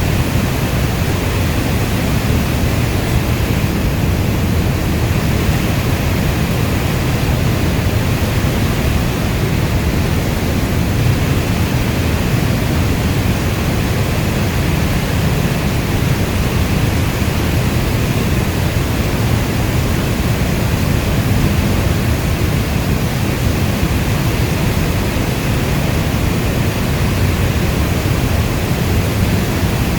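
Steady heavy rainstorm: an even, unbroken rush of rain with its weight in the low end, with no single drops, thunderclaps or other events standing out.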